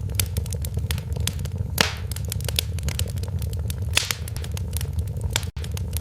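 Wood fire in a fireplace crackling steadily, with frequent small snaps and a couple of louder pops over a low steady rumble of the flames. There is a momentary dropout in the sound near the end.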